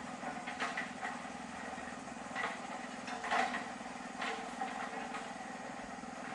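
A small motor running steadily with a low pulsing hum, with a few short, brief noises over it.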